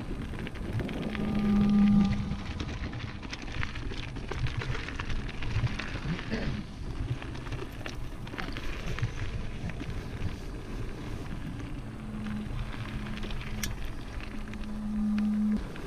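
Mountain bike riding down a dirt singletrack: tyres rolling over the ground with constant small rattles and knocks from the bike, and wind on the microphone. A steady low hum rises briefly about a second in and comes back for a few seconds near the end.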